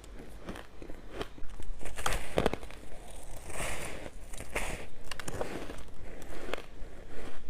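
Frozen purple ice being bitten and chewed close to the microphone: a series of sharp, irregular crunches, with a softer grinding stretch around the middle.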